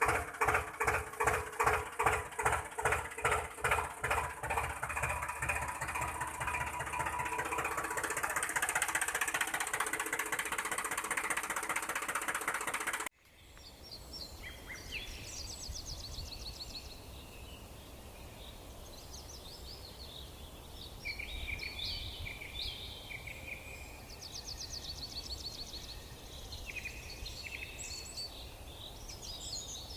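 An engine running with a fast pulsing beat that smooths into a steady drone, cut off suddenly about thirteen seconds in. After that, small birds chirp repeatedly over faint outdoor background noise.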